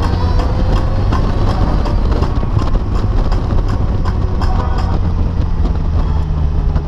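Polaris Slingshot's engine running steadily under way, with wind and road noise, heard from on board the open-cockpit three-wheeler.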